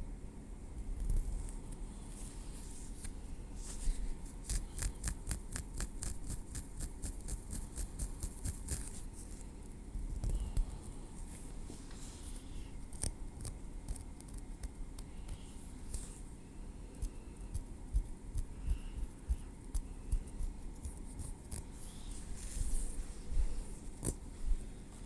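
Metal tweezers clicking lightly against each other and scraping over hair and scalp. A fast run of small clicks comes a few seconds in, followed by scattered clicks and soft scraping over a low rumble.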